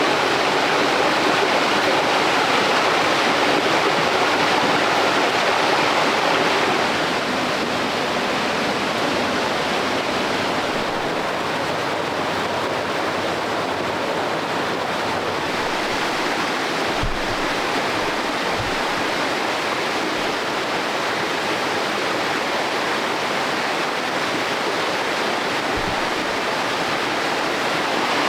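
Stream water rushing and splashing steadily over rocks, slightly quieter after about seven seconds, with a few faint low thuds later on.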